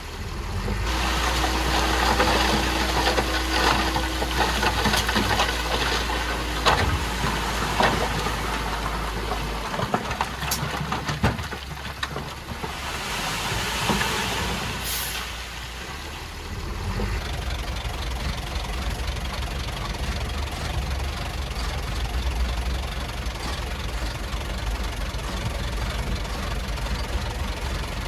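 Heavy diesel engine of earthmoving machinery running under load for about the first ten seconds, with clanks and knocks, then a burst of hiss, then a steadier, pulsing run.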